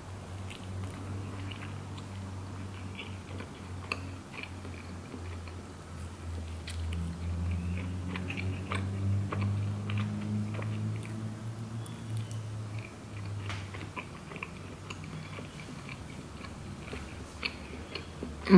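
Close-up chewing and biting: soft mouth sounds with small crunches and clicks as bread dipped in tomato soup is eaten, over a steady low hum.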